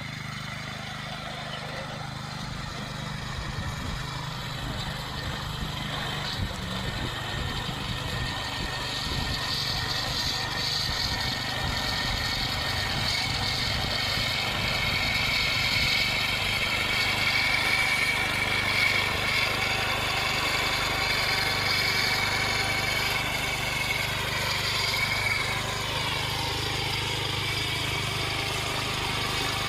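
Engine of a repowered David Bradley walk-behind tractor running steadily. It grows louder through the middle, with a higher-pitched whine over the low drone, and eases back a few seconds before the end.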